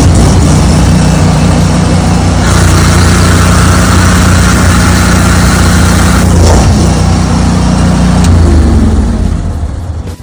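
Honda engine of a trash bin cleaning truck's high-pressure wash system running steadily and loudly, with a brief change partway through, then fading away near the end.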